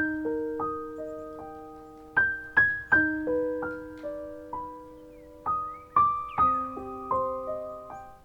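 Background piano music: slow, gentle single notes and chords, each struck note ringing and fading.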